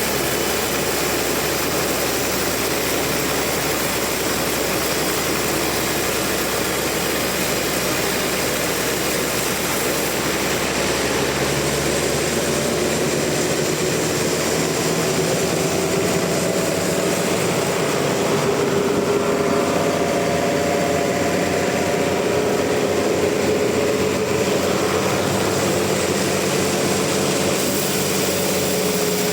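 Sawmill saw machinery running steadily through a large trembesi log, a continuous loud mechanical noise. About halfway through, a faint wavering whine joins in.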